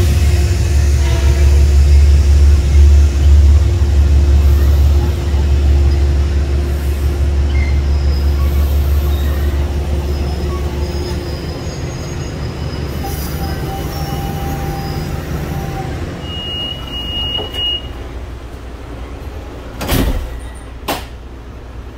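A diesel-hauled commuter train of passenger coaches rolling along the rails, a loud low rumble with a steady hum that slowly fades as it moves away. A brief high squeal comes about two-thirds of the way in, and two sharp knocks come near the end.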